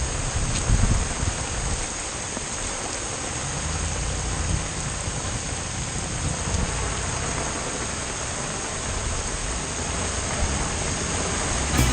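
Heavy rain falling steadily, with the low rumble of a vehicle engine underneath.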